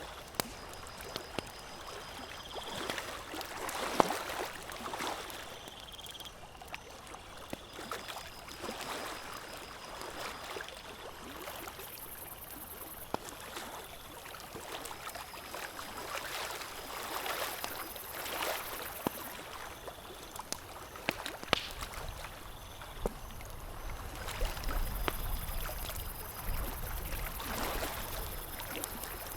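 Campfire crackling with scattered sharp pops over the repeated wash of small waves lapping at a lakeshore. Faint high steady tones come and go in the background.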